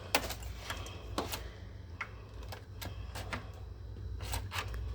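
Several light, irregular clicks and taps over a steady low hum.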